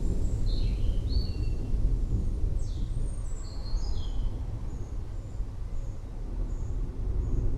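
Forest birds chirping: a quick run of short whistled notes in the first half, then fainter, sparser high notes, over a steady low rumble of distant thunder.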